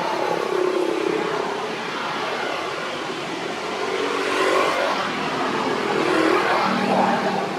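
Motor vehicle engines running and passing by, a steady noisy rush with engine tones that rise and fall over a few seconds.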